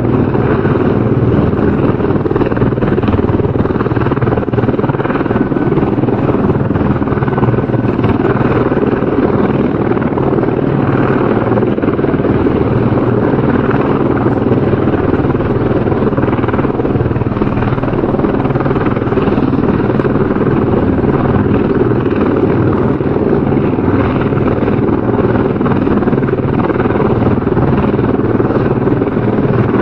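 Helicopter rotor and engine running steadily, an even, unchanging chop with no rise or fall in level.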